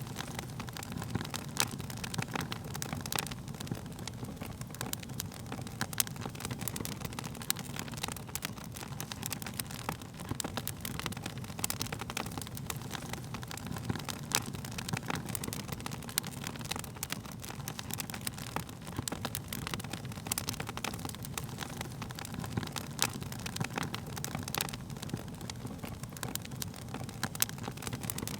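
Wood fire burning: a steady low rumble of the flames with frequent irregular sharp crackles and pops from the burning wood.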